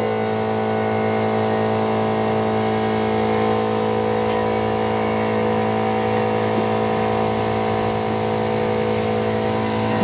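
A motor running at a steady speed: an unchanging hum with a clear pitch.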